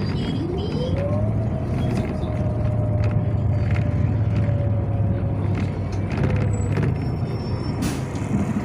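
Inside a Yutong ZK6118HGA city bus under way: a steady low drivetrain drone, with a whine that rises in pitch over about the first second and a half as the bus picks up speed, then holds almost level before fading out near the end.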